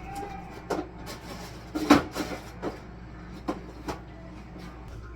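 A handful of short knocks and clacks of things being handled and set down, the loudest about two seconds in, over a steady low hum.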